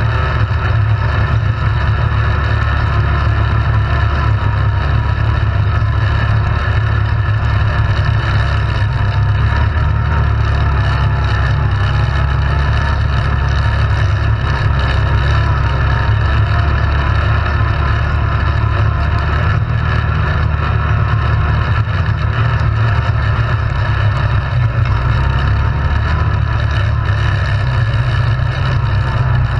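ATV engine running steadily under way, its sound heaviest in the low end, with no marked revving or stops.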